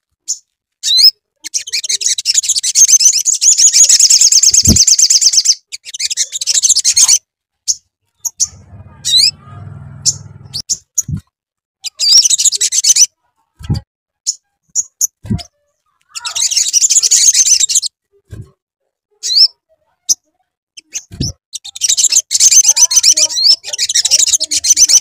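Sogok ontong (sogon) bird singing: loud, rapid, high-pitched chirping trills in several bursts of a few seconds each, with single sharp call notes between them. A few brief low knocks come through.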